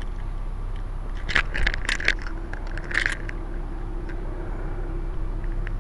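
Distant helicopter giving a steady low drone, with clusters of scraping, crackling handling noise on the microphone about a second in and again around three seconds.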